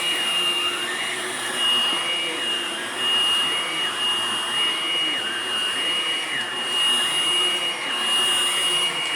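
Hoover Blade+ vacuum running continuously, with a steady high-pitched motor whine over the rush of air. Its airflow pitch dips and rises about once a second.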